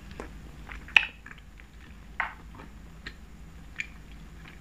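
Close-miked chewing and wet mouth smacks while eating tteokbokki, a few short sharp clicks, the loudest about a second in and another a little after two seconds.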